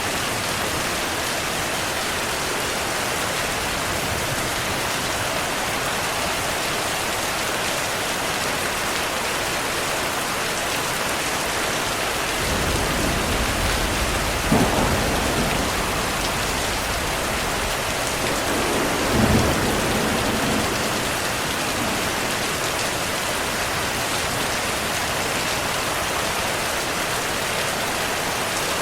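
Heavy rain falling steadily, with rolling thunder rumbling low in the middle. The thunder has two sharper cracks, about halfway through and a few seconds later.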